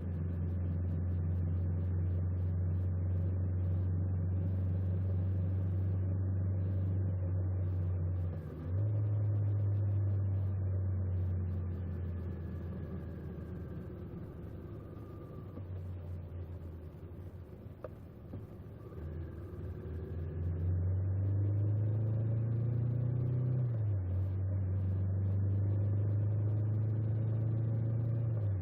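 Honda 400X motorcycle's parallel-twin engine running under way, a steady low note. The pitch steps up about a third of the way in, eases off through the middle, climbs in rising sweeps as the bike accelerates, then settles back to a steady cruise.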